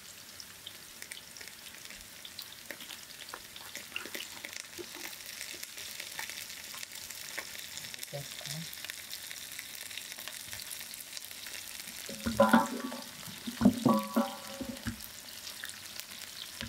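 Sliced onions and whole spices frying in hot oil in a large aluminium pot: a steady sizzle with small crackles. Near the end a wooden paddle stirs the pot, giving a few louder scraping strokes.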